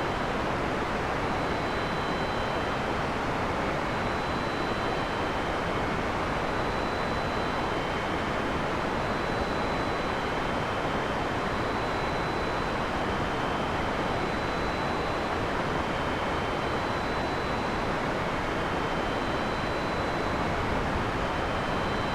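Heavy rain falling steadily, an even dense hiss with no thunder. Faint thin high tones, each about a second long, recur every couple of seconds over it.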